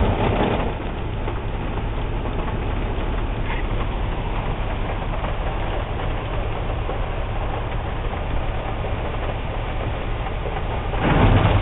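Automatic car wash machinery running, heard from inside the car: a steady mechanical rumble and rushing noise with a low hum underneath, growing louder near the end.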